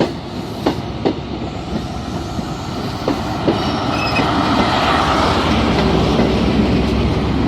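A train moving through the station: wheels knock over rail joints a few times, a brief high wheel squeal comes about four seconds in, then the running noise grows louder as the train draws closer.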